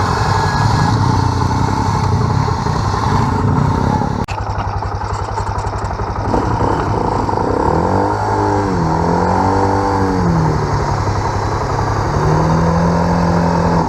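Quad bike engine revving up and falling back several times in the second half as the stuck quad tries to pull itself out of sand, over the steady running of another engine; a single sharp click a little after four seconds in.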